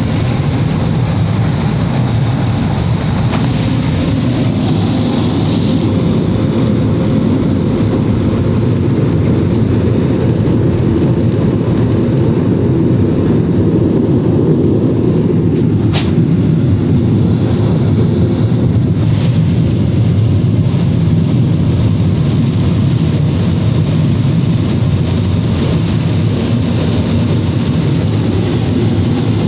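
Autec in-bay automatic car wash running: a loud, steady rush of machinery noise, with one sharp click about sixteen seconds in.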